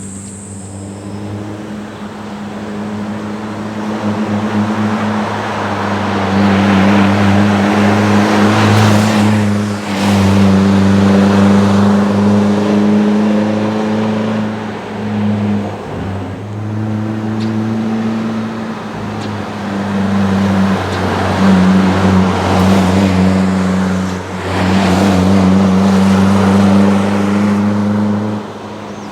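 Suzuki Jimny Sierra JB74's 1.5-litre four-cylinder engine running through an APIO Shizuka Gozen aftermarket muffler. Its exhaust note swells louder and eases back several times, with short dips in between.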